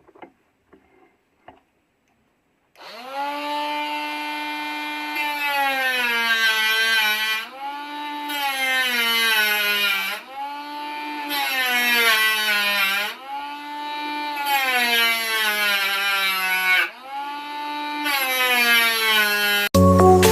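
Electric power tool motor run in about six bursts, each spinning up quickly and then dropping slowly in pitch as it takes load, as when drilling or cutting plastic.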